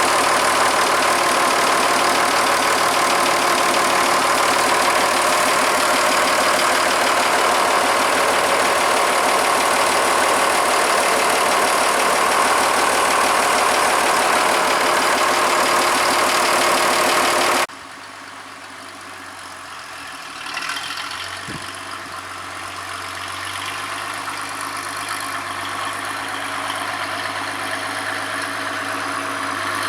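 Farmall 806 tractor engine running steadily, freshly refilled with oil and running clean. About two-thirds of the way through, the sound drops suddenly to a much quieter low hum, which slowly grows louder.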